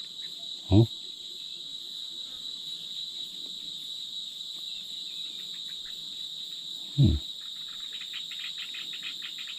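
Insects, such as crickets, keep up a steady, even, high-pitched buzz throughout. Two brief, loud, low sounds break through it, about a second in and about seven seconds in, and a rapid fine ticking starts near the end.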